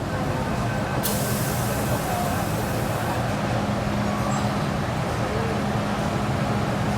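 MTR M-Train electric multiple unit at a station platform: a steady hum and rumble, with a hiss of released air starting about a second in and lasting about two seconds.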